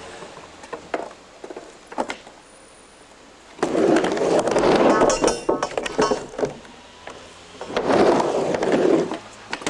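Skateboard rolling back and forth on a mini ramp: two long rushes of wheel noise, each several seconds long, with sharp clacks of the board and trucks between and within them.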